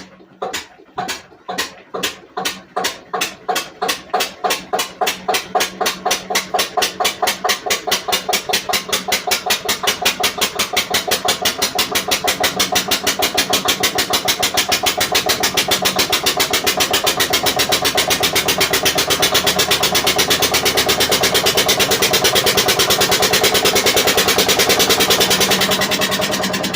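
Witte diesel engine starting from cold on a whiff of ether: the firing beats come slowly at first, about one or two a second, then speed up steadily and grow louder into a fast, even beat, easing off slightly near the end.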